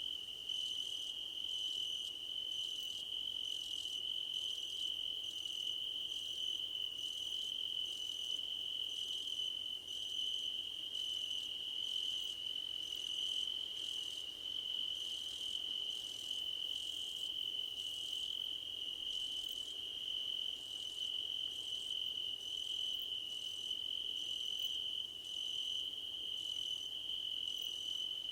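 Crickets singing in a grassy field: a continuous high, steady trill with a second, higher chirp pulsing on and off about twice a second over it.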